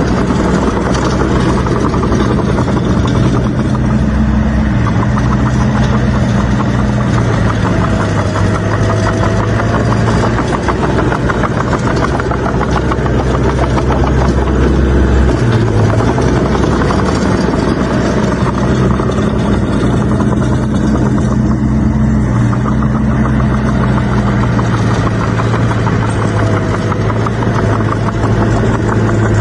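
A bulldozer's diesel engine running hard as it works, loud and steady, with its note stepping up and down a few times as the load changes.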